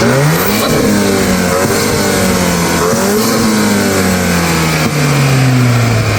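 Volkswagen Golf 8R's stage-2-tuned 2.0-litre turbocharged EA888 four-cylinder, fitted with a carbon-fibre intake, being revved twice: the pitch climbs quickly right at the start and again about three seconds in, each time falling slowly back toward idle.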